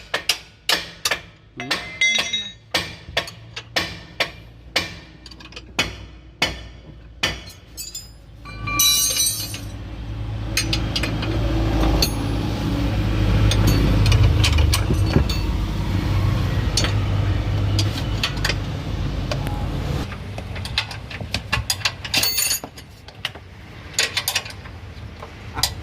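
Rapid hammer blows on metal, two to three a second, each ringing briefly, for about eight seconds. A steady low motor drone then takes over for about ten seconds with occasional knocks, and sparser metal taps follow near the end.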